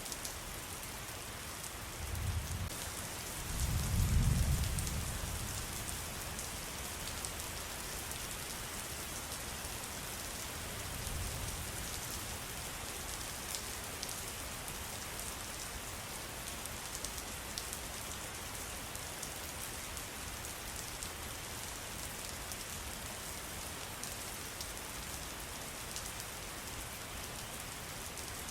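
Steady rain falling, a dense hiss with fine pattering drops. Low rumbles come in about two and four seconds in, the second the loudest, and a fainter one near eleven seconds.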